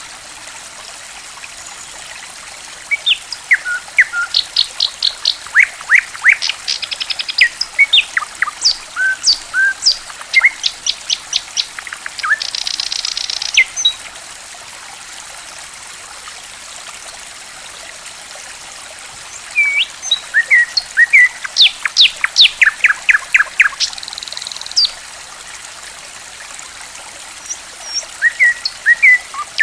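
A songbird sings in phrases of sharp whistles, rapid trills and buzzy notes over a steady trickle of running water. The singing pauses for several seconds midway and starts again near the end.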